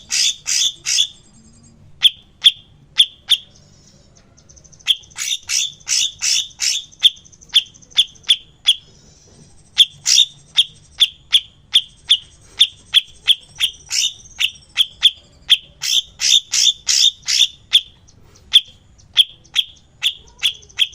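Cucak cungkok songbird repeating short, sharp, high calls in quick runs of two to four a second, broken by brief pauses. A faint higher trill sounds underneath at times.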